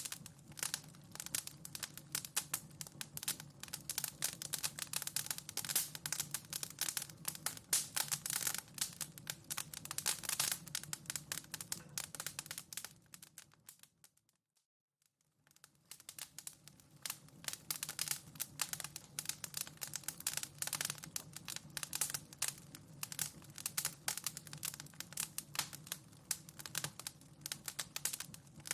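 Wood fire in a fireplace crackling and popping, a dense run of small snaps over a low steady rumble. Just past the middle it fades out to silence for about a second and fades back in.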